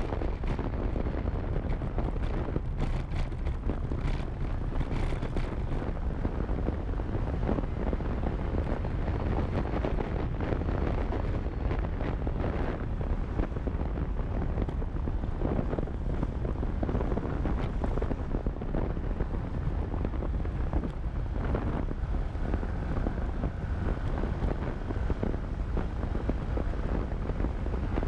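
Riding a motorcycle: wind rushing over the action camera's microphone, with the motorcycle's engine running underneath, steady and low-pitched.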